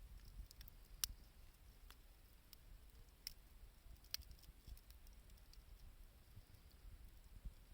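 Wood fire crackling faintly, with a few scattered sharp pops; the loudest comes about a second in.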